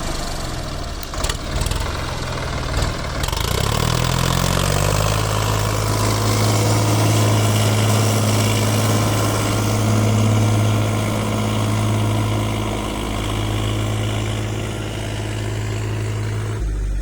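Diesel engine of a heavy farm or earth-moving machine running unevenly at first, then rising in pitch about four seconds in and settling into a steady, strong running note.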